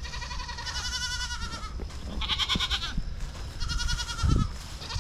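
Livestock bleating: four long, quavering calls in quick succession, one after another. A dull low thump sounds about four seconds in.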